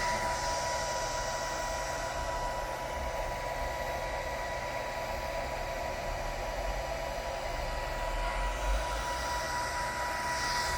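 Servo motor and drive running steadily on a test bench: an even mechanical whir with a constant high-pitched whine.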